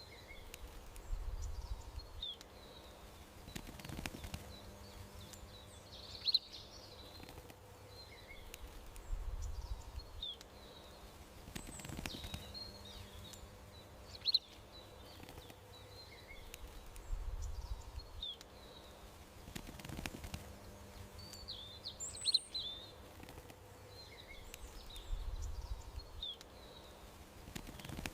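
Small songbirds chirping in short, scattered calls over a faint steady hum. A soft low rumble and a single sharp click come back about every eight seconds, as in a repeating garden-ambience track.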